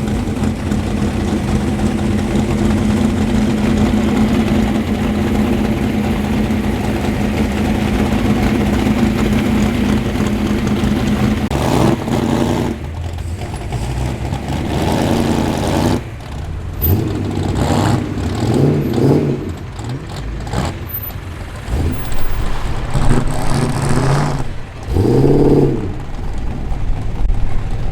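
Performance car engines rumbling at low speed as cars roll in, a steady engine note for about the first twelve seconds. After that come several short revs, each rising in pitch, as cars accelerate past.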